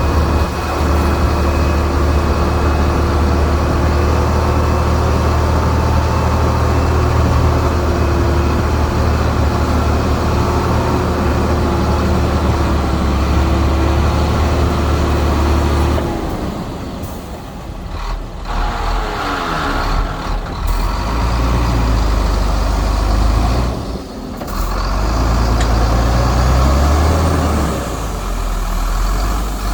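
Diesel engines of heavy earthmoving machinery, bulldozer and dump trucks, running loud under load. The engine note holds steady for about half the time, then drops and shifts, with brief lulls, and builds again near the end.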